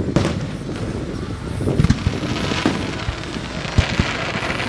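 Fireworks display: a rapid run of sharp bangs and deep booms from bursting aerial shells, the loudest about two seconds in and again near four seconds.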